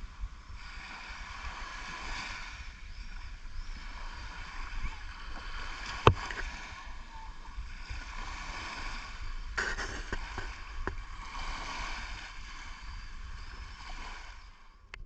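Seaside ambience: water washing at the shore in slow swells, with wind rumble on the microphone and one sharp knock about six seconds in.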